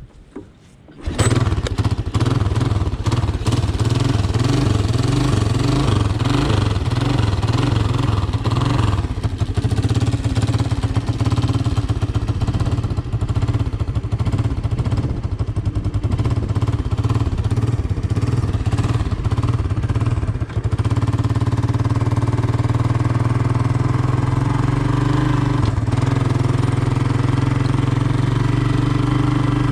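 Honda ATC 200M three-wheeler's single-cylinder engine starting about a second in and running steadily, its note evening out a little after about twenty seconds.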